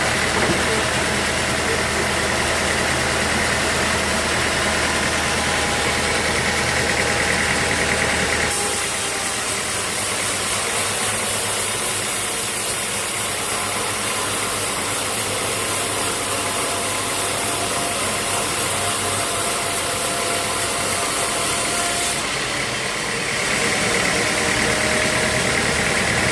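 Sawmill machinery running steadily. About eight seconds in, the sound changes to less rumble and more high hiss; near the end the earlier running sound returns.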